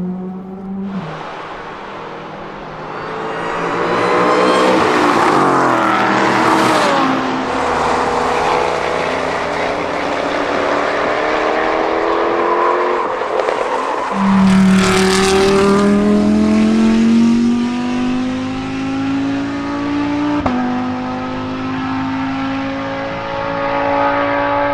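High-performance car engines accelerating hard with a rising exhaust note. One car's engine surges past about five seconds in. Another sets off loudly about halfway through and climbs through the revs, with a quick upshift about three-quarters of the way through.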